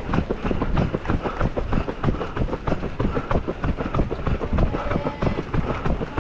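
Running footsteps slapping on the road, many quick short knocks close together, with wind buffeting the microphone.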